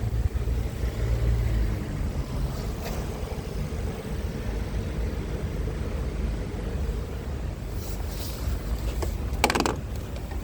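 Scania R tractor unit's engine running with a steady low rumble, with a brief rattle about nine and a half seconds in.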